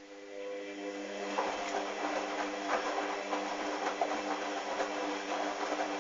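Hoover washing machine starting up after a pause: a steady motor hum comes in, and about a second and a half in the churning and clicking of wet, sudsy towels turning in the drum joins it.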